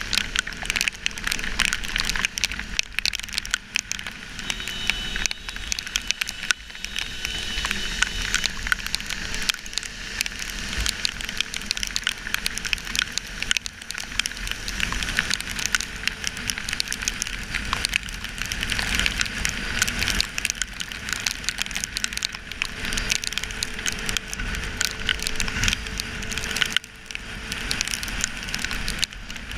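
Heavy rain striking a GoPro's waterproof housing on a moving motorcycle: a dense, continuous crackle of drop impacts over a low rumble of wind and road noise.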